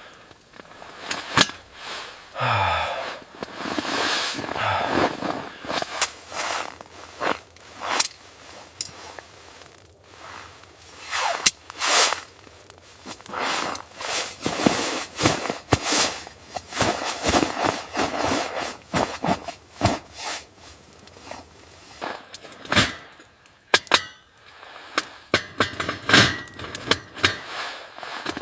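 Irregular sharp clicks and knocks, one or two a second, with rustling noise in between.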